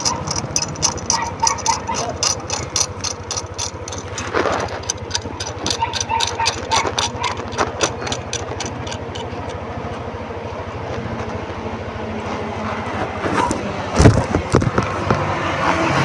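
Yamaha NMAX 155 scooter engine running at a low, steady pace, with a rapid regular ticking of about three to four clicks a second that fades out about halfway through. A loud knock comes near the end, and the engine gets louder after it as the ride gets under way.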